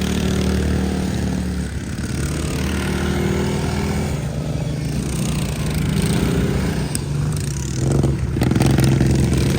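Racing riding lawn mower engines running hard together, their steady drone made of a few engine notes at slightly different pitches. A few sharp clicks come in about seven to eight seconds in.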